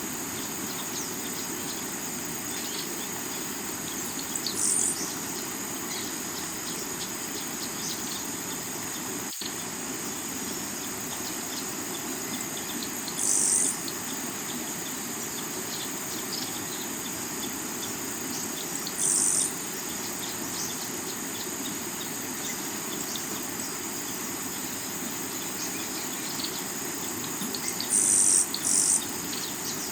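Steady rush of a rocky river under a continuous high insect chorus of crickets. About five brief, louder high insect buzzes come every several seconds, with scattered small bird chirps.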